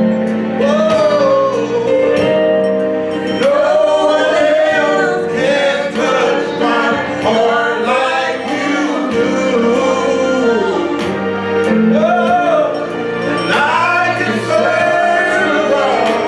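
Gospel praise-and-worship music: singing over sustained instrumental accompaniment with frequent sharp percussive hits.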